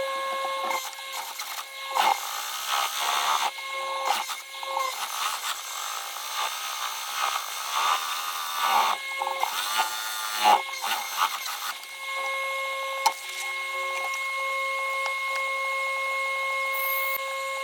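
Seat repair work: scraping and rubbing with a few sharp knocks, over a steady high-pitched hum that cuts out several times.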